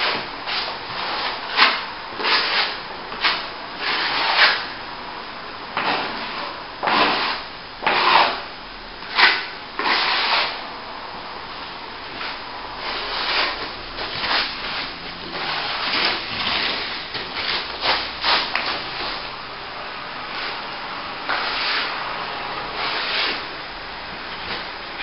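Steel plastering trowel stroking over a plaster top coat, a run of irregular scraping sweeps, some of them louder and longer.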